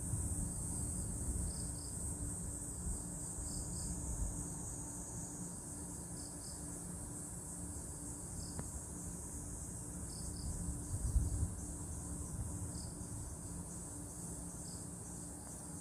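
Night insects trilling steadily in a high band, with a separate short chirp repeating every second or two. A brief low rumble comes about eleven seconds in.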